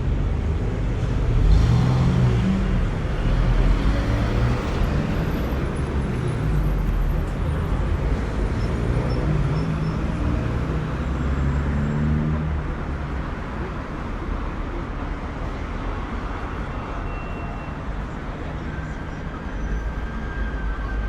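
City street traffic: cars passing by, loudest a couple of seconds in and easing off after about thirteen seconds.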